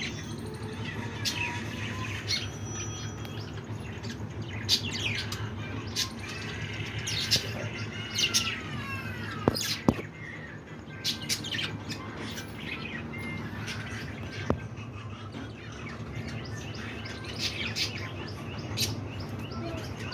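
Budgerigars chirping and chattering continuously in quick, high warbling calls, with a few sharp clicks around the middle over a steady low hum.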